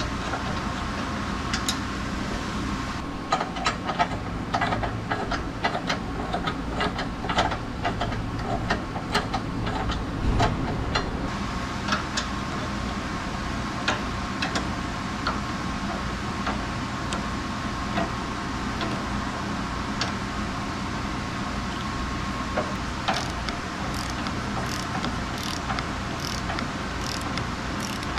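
Quick, irregular clicks and taps of hand tools working on the car's underside, over a steady workshop hum. They come in two runs: a dense one from about three seconds to eleven seconds in, and another near the end.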